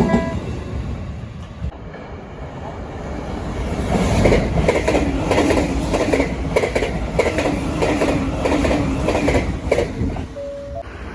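Train passing over rail joints: the wheels click over each joint in repeated groups, a clickety-clack that builds about four seconds in and eases off near the end.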